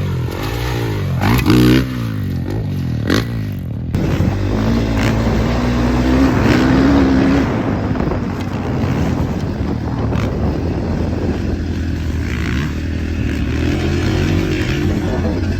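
Dirt bike engines revving up and backing off as the bikes ride the track, with the pitch repeatedly rising and falling.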